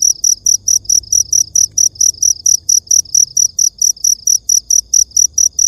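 Cricket chirping in a fast, even rhythm, about five to six short high-pitched chirps a second.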